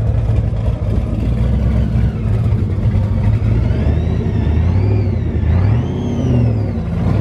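Car engine running, with its pitch rising and falling several times in the second half.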